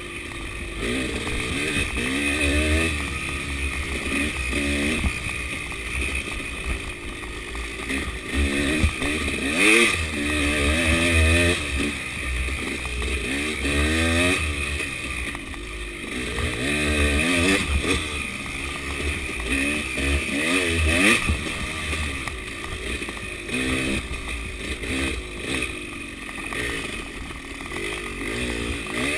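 KTM 300 two-stroke enduro motorcycle engine running under load, its pitch rising and falling over and over as the throttle is opened and closed.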